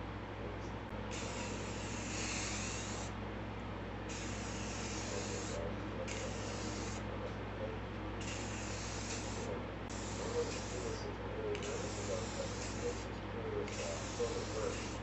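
Aerosol spray paint can spraying in about seven short bursts of hiss, each one to two seconds long with brief pauses between: touch-up coats of paint going on.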